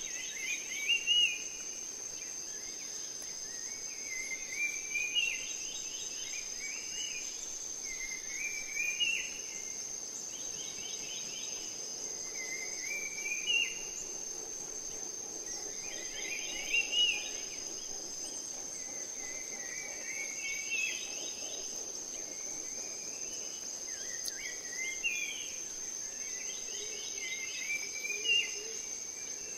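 Steady high-pitched insect drone with a bird singing a short warbling phrase about every four seconds, eight times.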